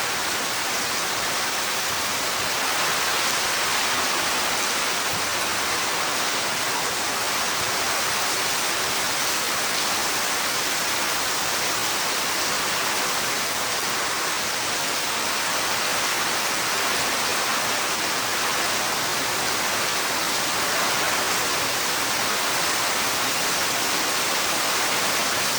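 Heavy rain pouring down, a dense and steady hiss that does not let up.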